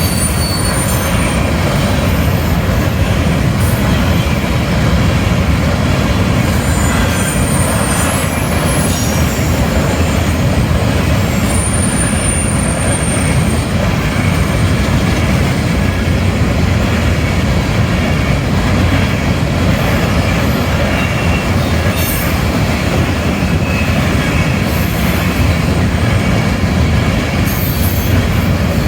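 Kansas City Southern freight train rolling steadily past, its wheels running loud on the rails, with several brief high-pitched wheel squeals.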